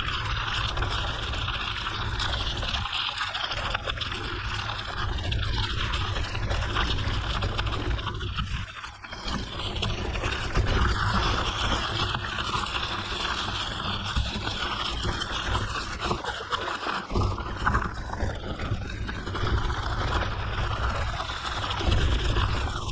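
A cyclist panting hard while riding a mountain bike on a gravel forest road, over steady rumbling wind on the microphone and tyre noise.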